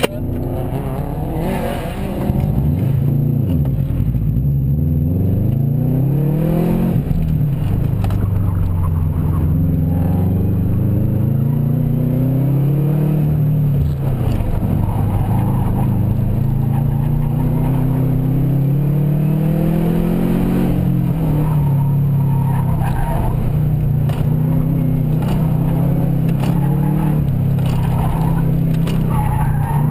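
Car engine heard from inside the cabin, driven hard through an autocross course: the pitch climbs steeply about two seconds in as the car launches from the start line, then rises and falls over and over with throttle lifts and gear changes.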